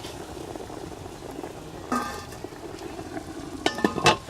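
Food sizzling as it fries in a pan, with a utensil clinking against the pan once about two seconds in and several times in quick succession near the end.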